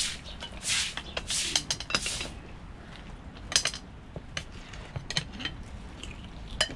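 Cooking utensils and pots: a few quick scraping strokes, then scattered sharp clinks and knocks of metal.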